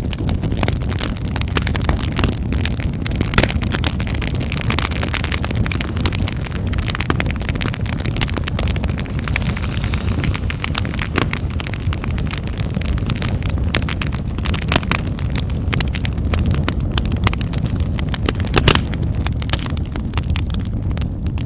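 Wood fire in a fireplace crackling, with frequent sharp pops and snaps over a steady low rumble of the burning flames.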